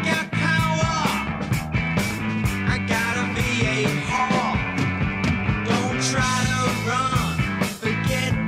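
Punk rock track playing: a steady drum beat and bass under electric guitars, with a lead line bending its notes up and down and no singing.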